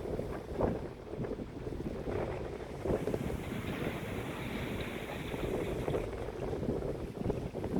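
Wind gusting across the microphone, with sea noise beneath and a brighter hiss for a few seconds midway.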